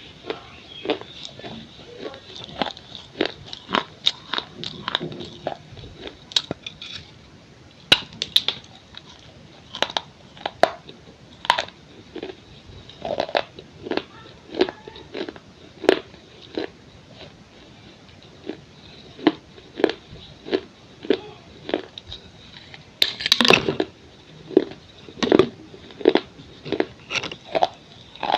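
A person biting and chewing pieces of a clay pot bowl: a long run of sharp, irregular crunches, about one or two a second, with a louder burst of crunching a little past two-thirds of the way through.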